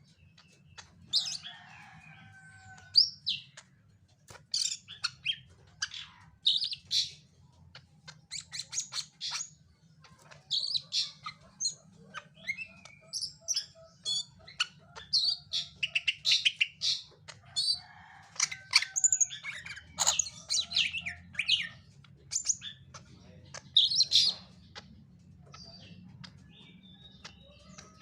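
Cucak ijo (greater green leafbird) singing in rapid bursts of chirps and short whistled notes, with a faint steady low hum underneath.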